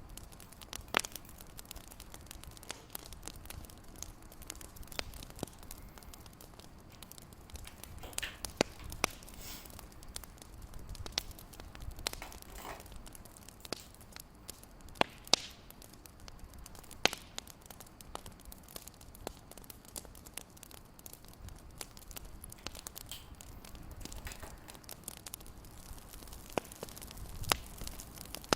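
Fireplace crackling: irregular sharp pops and snaps over a low steady hiss.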